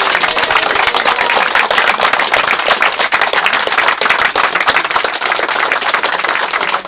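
Loud applause from a crowd: dense, fast hand clapping.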